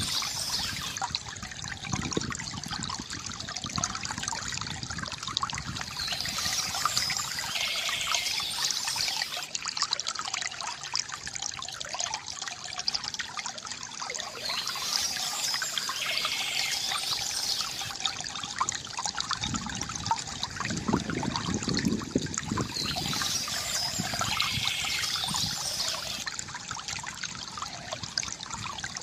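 Water from a bamboo fountain trickling and splashing continuously, with an irregular spatter of droplets. A brighter, higher layer swells and fades about every eight seconds, and a deeper gurgle rises for a few seconds past the middle.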